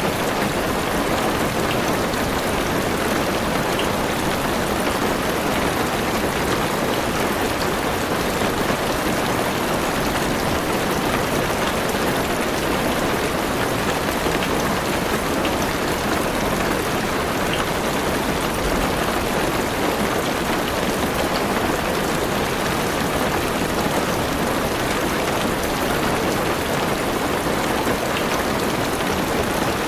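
Heavy rain falling steadily on a car's roof and windows, an even patter without letup.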